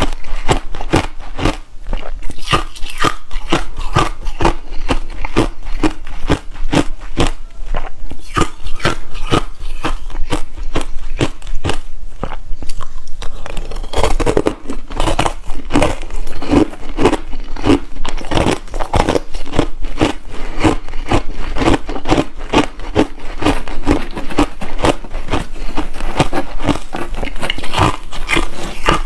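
Close-up crunching and chewing of hard, refrozen crushed ice, a rapid run of sharp crunches that carries on throughout.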